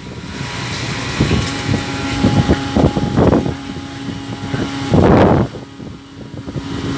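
Longline fishing boat at sea: a steady low engine hum under irregular surges of wind and water noise, the loudest about five seconds in.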